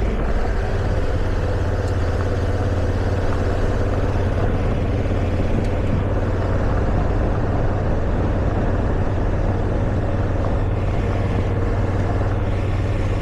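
Motorcycle engine running at a steady speed while climbing a gravel mountain road, a constant low drone with road noise.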